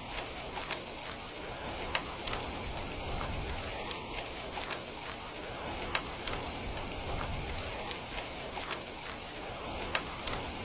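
Steady rain falling, an even hiss of drops, with scattered sharp clicks over it, the loudest about two, six and ten seconds in.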